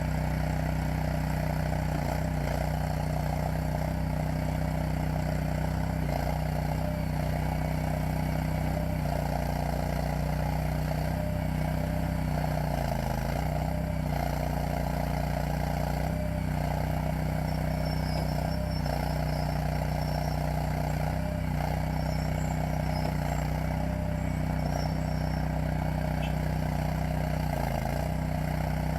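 Honda GX690 air-cooled V-twin gas engine of a Stag WL322 skid steer loader running steadily at a constant speed. Its pitch sags briefly a few times, about 6, 13 and 28 seconds in.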